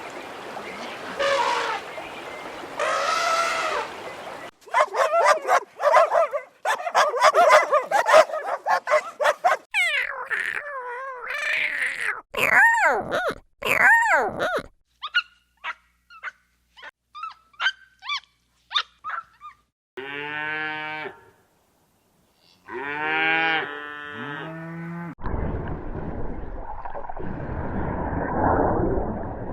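A run of different animal calls cut one after another: dense, rapid calling first, then sweeping calls that rise and fall, short chirps, two bouts of pitched calls, and a noisier stretch near the end.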